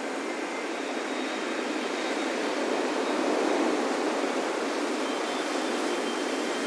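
Ocean surf breaking and washing on a beach, a steady rush that swells about halfway through, with faint high wind-chime tones ringing over it.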